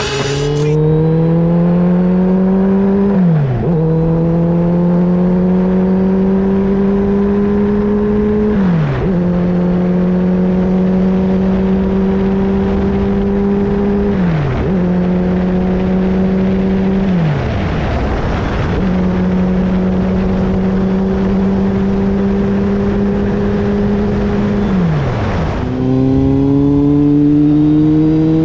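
Kawasaki Z800's inline-four engine running through a Giannelli aftermarket exhaust. The revs hold fairly steady and creep up, then dip sharply and pick back up five times, about every five or six seconds.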